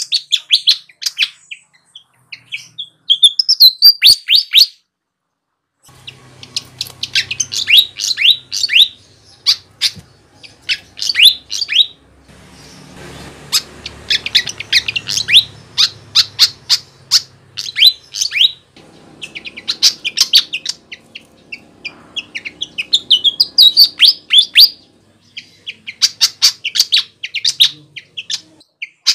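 Flycatcher (sikatan) singing: phrases of rapid, high, sweeping chirps a second or two long, repeated with short pauses, as used for luring wild birds.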